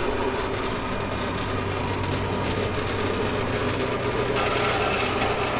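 Harbor Freight metal-cutting bandsaw running with a steady motor hum while its blade slowly cuts steel exhaust tubing. A brighter, higher hiss joins after about four seconds.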